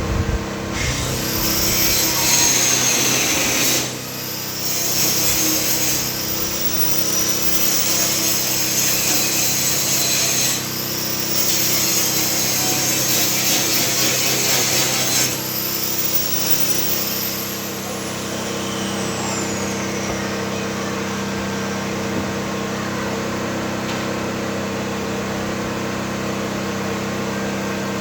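Stihl MS250 two-stroke chainsaw revving up and cutting into wood in four cuts, the chain whine rising as each cut starts. After the last cut the saw winds down to a steady idle.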